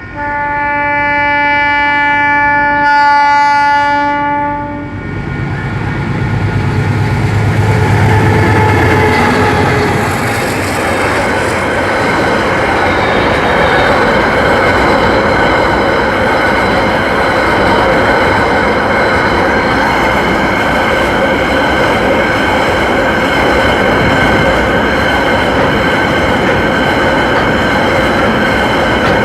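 ALCo RSD16 diesel locomotive sounding one long horn blast of about five seconds. Its engine then rumbles past, followed by the steady rolling noise of the train's wagons on the rails with some ringing wheel tones.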